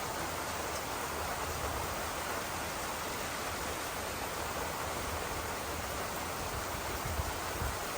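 Steady, even hiss of outdoor storm ambience with a faint low rumble underneath that swells slightly twice near the end.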